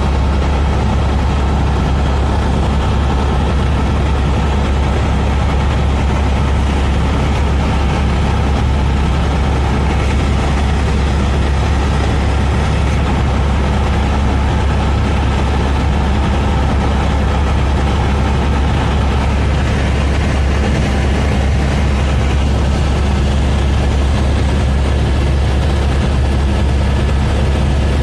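Helicopter in flight: a steady, loud drone of engine and rotor that holds unchanged throughout.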